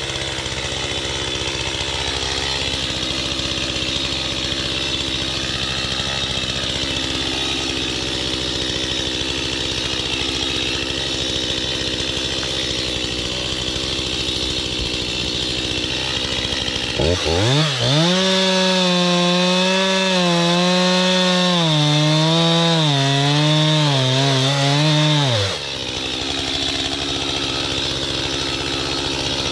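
Gas chainsaw idling, then revved to full throttle about halfway through. It runs at high revs for about eight seconds, its pitch dipping and rising, then drops back to idle.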